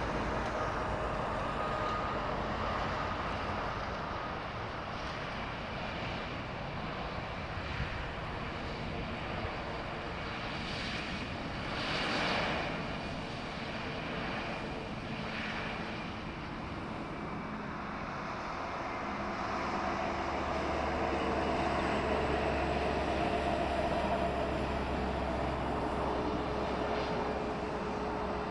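Airbus A320neo jet airliner with CFM LEAP-1A engines arriving to land, its engines giving a steady jet hum that swells briefly about twelve seconds in and grows louder in the last third.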